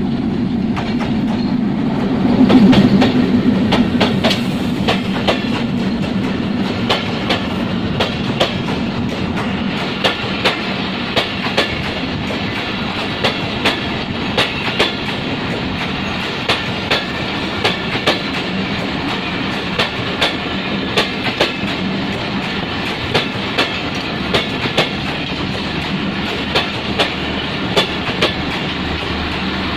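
Diesel locomotive of a Bangladesh Railway passenger train passing close by, its engine loudest a few seconds in. The coaches follow, rolling past with a steady rumble and a regular clickety-clack of wheels over the rail joints.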